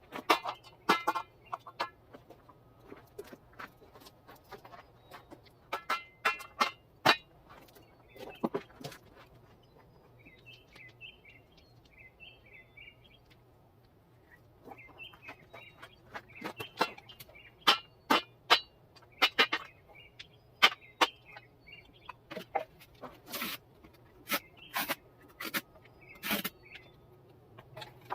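Irregular sharp knocks and clanks in clusters, from hands-on work with metal parts. In the quieter stretch in the middle, short bird calls repeat.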